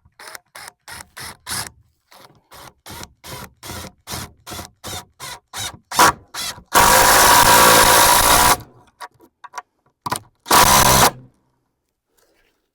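A power tool such as a drill, first run in quick short pulses about three times a second, then held on for about two seconds, then one more short run.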